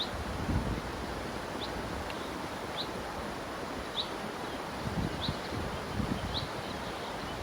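Steady rush of a river, with a bird repeating one short, high chirp about once a second, and a few low thumps.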